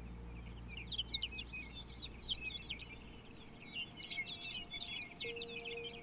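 A busy chorus of small birds chirping rapidly. Soft held music tones sit faintly underneath, one fading away partway through and new ones entering near the end.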